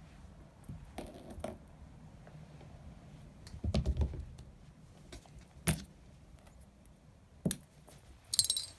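A ping pong ball being batted about by a cat: scattered light plastic clicks and taps on a hard surface, a cluster of duller knocks about four seconds in, and a quick run of bright bounces near the end.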